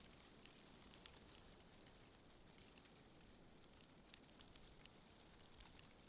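Faint, steady wind ambience, a soft even hiss, with scattered light ticks and crackles that come more often in the second half.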